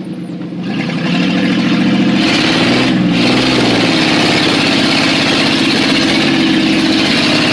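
1991 Chevrolet 1500's 4.3-litre V6 engine revving hard under load. It grows louder about a second in and its pitch shifts between about two and three and a half seconds, over a loud rushing noise.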